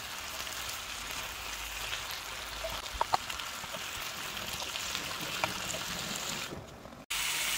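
Eggplant, ground chicken and bell peppers sizzling in an electric skillet as a spatula stirs them, with a couple of light clicks of the spatula on the pan about three seconds in. Near the end the sizzle fades, breaks off, and comes back louder.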